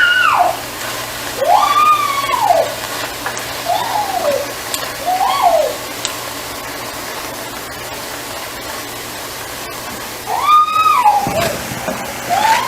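Steady hiss of fresh spinach cooking down in oil in a pan. About five short, high-pitched cries rise and fall over it, one at a time, with a longer gap in the middle.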